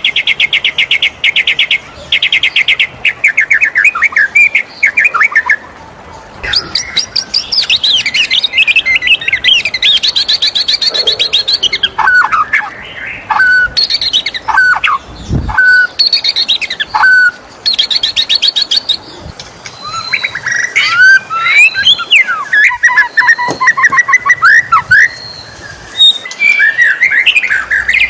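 White-rumped shama singing a loud, varied song: very fast trills, a string of clear downward-slurred whistles, then dense chattering phrases. A brief low thump about halfway through.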